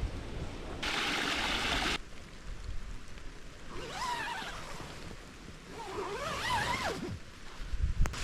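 Wind rumbling and buffeting the microphone, with a burst of hiss about a second in. Two short wavering, pitched cries rise and fall around the middle.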